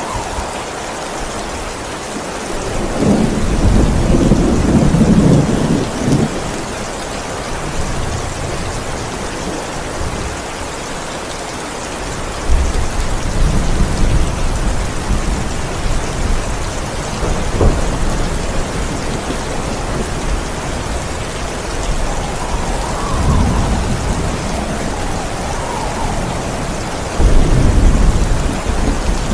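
Steady heavy rain with rolling thunder: several low rumbles swell and fade over the rain, the loudest about three seconds in and again near the end.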